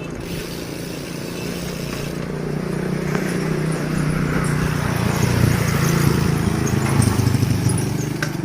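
A motor vehicle engine running close by with a steady hum, growing louder toward the middle and easing off near the end.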